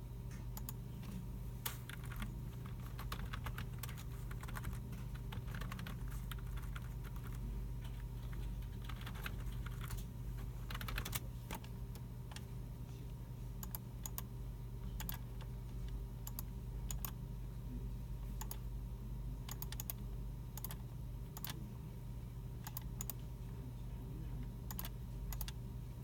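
Computer keyboard typing and mouse clicks: runs of keystrokes, densest in the first half, thinning to scattered single clicks later, over a steady low hum.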